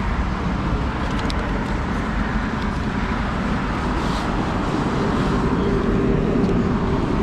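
Honda CRF150L single-cylinder motorcycle running with wind rushing past on the move. About five seconds in the engine note climbs and gets a little louder as it speeds up.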